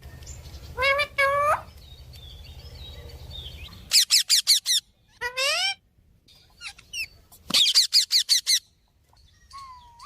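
A parrot calling: two rising calls about a second in, then two rapid runs of sharp, repeated chirping calls, about six to seven in quick succession, near four and eight seconds in, with shorter rising calls between.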